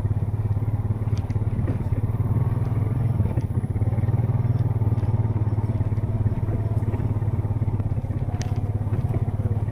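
ATV engine running steadily at an even speed, with a few light clicks and rattles over it.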